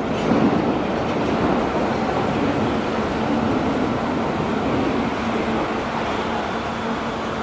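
Steady running noise of a Kintetsu 30000 series Vista EX limited express train, a constant wash of noise with a faint low hum.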